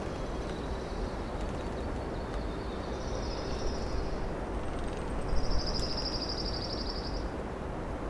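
A small songbird's rapid high trill, given twice: a short, faint one about three seconds in, then a louder one lasting nearly two seconds, over a steady low background rumble of forest ambience.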